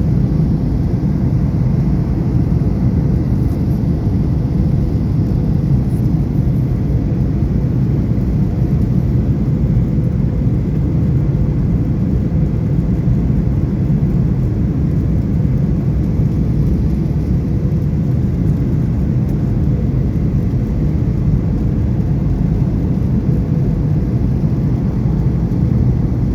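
Jet airliner cabin noise: a steady low rumble of engines and airflow, with a faint constant hum.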